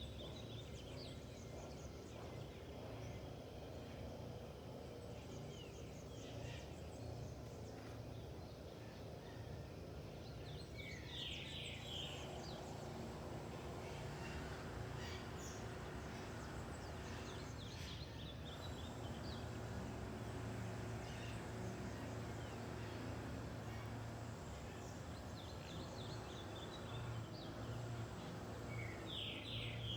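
Birds calling now and then over a steady low background rumble: short runs of quick high notes, clearest about a third of the way in and again near the end.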